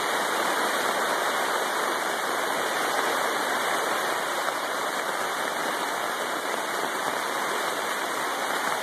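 Rain on a plastic tarp roof overhead, a steady dense hiss.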